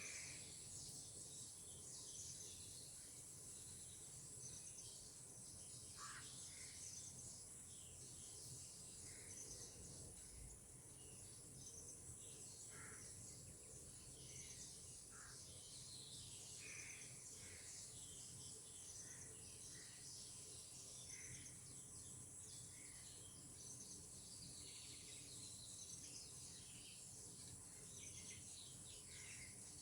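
Faint outdoor ambience: a steady high-pitched insect trill, with short bird calls scattered every second or two.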